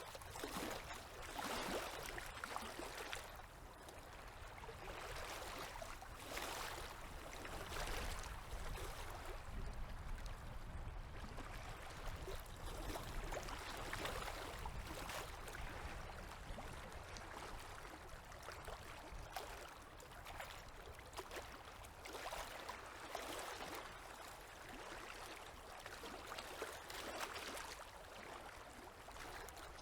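Small river waves lapping at the bank, a wash of water that swells and eases every couple of seconds.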